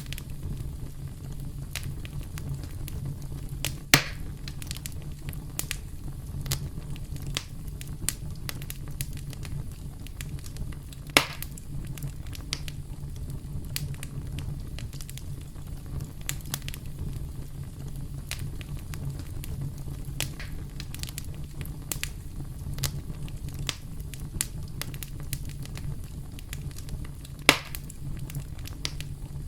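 Campfire burning: a steady low rumble of flames with frequent irregular crackles and pops, and three louder sharp pops, about 4, 11 and 27 seconds in.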